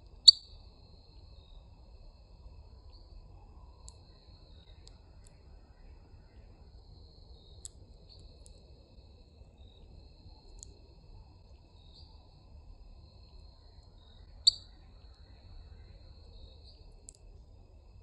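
Sharp, short bird chip notes, two loud ones about a third of a second in and again near 14.5 s, with about eight fainter chips scattered between. A continuous high, thin insect trill runs under them, with a faint low rumble of outdoor background.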